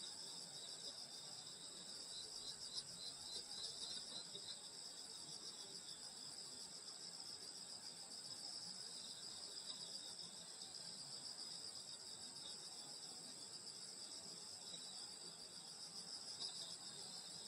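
A night chorus of crickets and other grass insects chirring steadily and high-pitched, with a short run of separate chirps from one insect about two to four seconds in.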